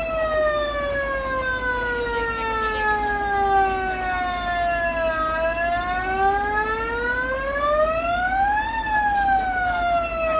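A siren wailing: a single tone slowly falls in pitch for about five seconds, rises again to a peak near the end, then begins to fall.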